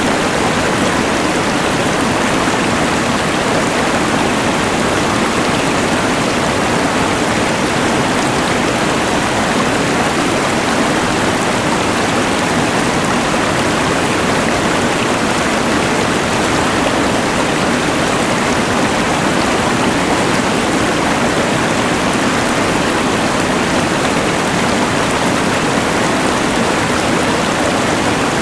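Steady rushing of a mountain river blended with the even hiss of a LectroFan white noise machine, unchanging throughout.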